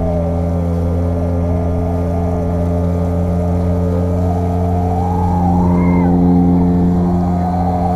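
Speeda 6 outboard motor running steadily, with a higher whine above the even engine note that wavers up and down in pitch.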